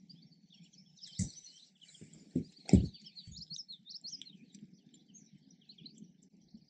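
Songbirds chirping in short, scattered calls, with a few dull knocks from about a second in to three and a half seconds, the loudest near three seconds.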